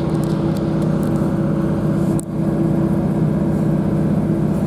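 Steady diesel engine drone heard inside a Northern Class 156 diesel multiple unit carriage: a continuous low hum with a few steady tones, dipping briefly about two seconds in.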